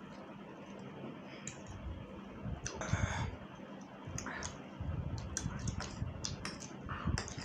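Close-miked eating sounds: a person chewing spicy instant noodles, with many sharp wet mouth clicks and smacks and a couple of brief noisy bursts in between.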